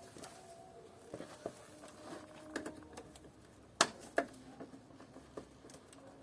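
Small clicks and knocks of parts and tools being handled during the disassembly of an air-conditioning unit, with two sharper knocks close together about four seconds in.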